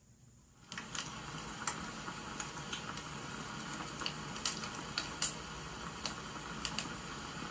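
Wood fire crackling, with irregular sharp pops over a steady hiss; it starts suddenly less than a second in.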